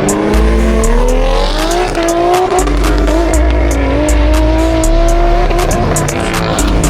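A car engine revving and pulling away, its pitch climbing and dropping over a few seconds, over music with a deep, stepping bass and a steady hi-hat beat.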